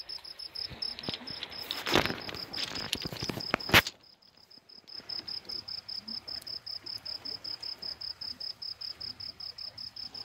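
A cricket chirping in a steady, even run of high-pitched pulses. Around two to four seconds in, a stretch of rustling and clicks ends on a sharp click.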